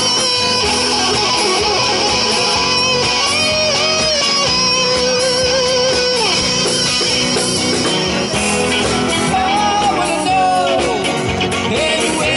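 Band music without vocals: a lead guitar line with bent, wavering notes over strummed guitar and a steady rhythm section.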